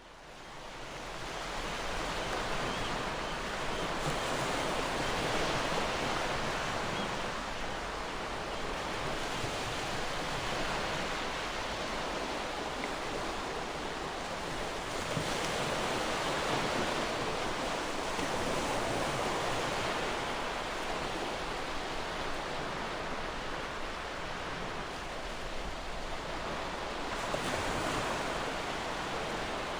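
Gentle ocean waves: a steady hiss of surf that slowly swells and eases as waves wash in. It fades in over the first couple of seconds.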